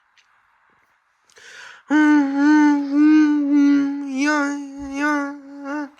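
A person humming a tune for about four seconds, mostly on one steady note with small wavers, stopping abruptly near the end.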